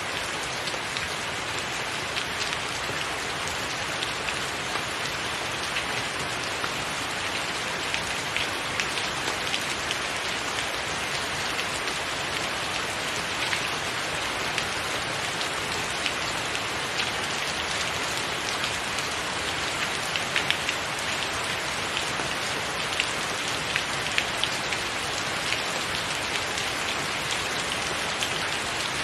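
Steady rain falling on a tiled roof, with many separate drop hits standing out from the even wash of the downpour.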